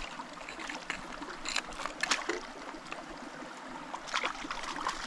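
Small mountain creek running steadily, with a few short sharp sounds about a second and a half, two seconds and four seconds in.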